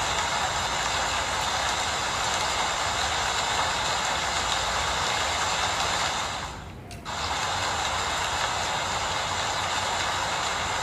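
Steady rain falling, an even hiss that drops away for about half a second roughly two-thirds of the way through before returning.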